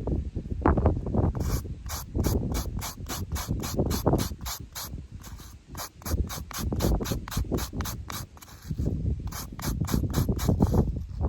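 Rapid, evenly spaced mechanical clicking, about four to five clicks a second, that pauses briefly and then resumes. Under it is a gusting low rumble of wind on the microphone.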